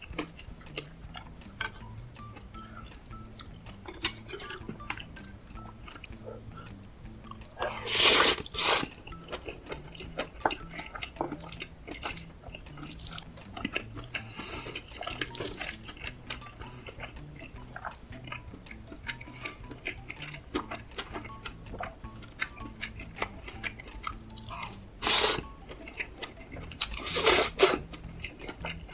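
Close-miked eating sounds: wet chewing with many small clicks of a spoon and cutlery against the dish. There are three louder bursts, one about eight seconds in and two near the end.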